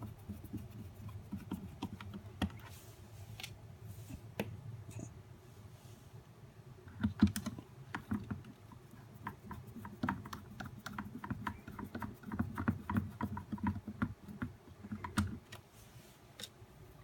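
Irregular light clicks and taps of a nail dust collector's parts being handled and fitted together, with a louder knock about seven seconds in.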